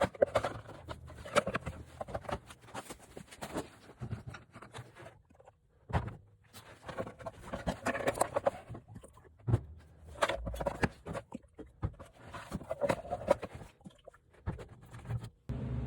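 Irregular clicks, taps and knocks of hand tools and parts being handled on a truck engine, with short quiet gaps between them.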